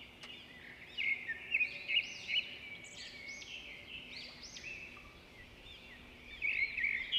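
Small birds chirping in quick, repeated short calls that come in clusters, over a faint steady hum.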